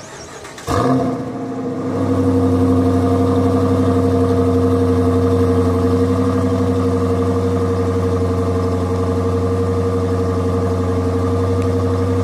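Dodge Challenger engine starting about a second in with a brief rev, then idling steadily.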